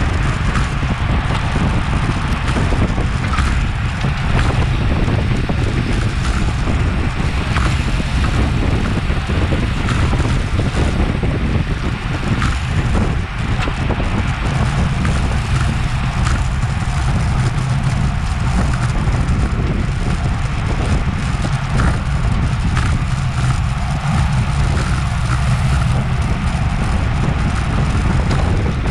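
Wind buffeting the microphone of an action camera riding on a racing road bicycle at speed, a steady low rush with tyre and road noise beneath it.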